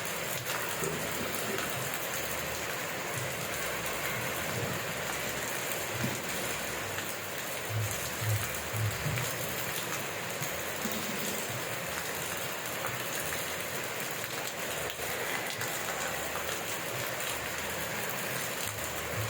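Steady rain falling: an even hiss of drops on surfaces, with a few soft low thumps about halfway through.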